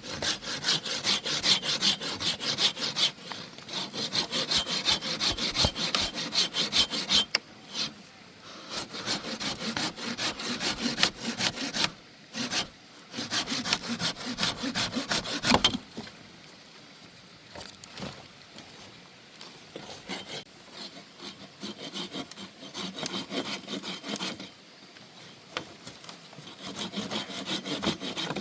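Hand saw cutting through wood of a fallen tree, with steady back-and-forth rasping strokes. The sawing breaks off briefly a couple of times and is quieter in the second half.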